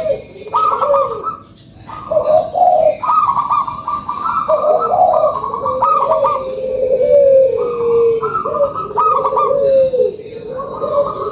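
Local zebra dove (perkutut) cooing: a string of coo phrases, one after another with short breaks.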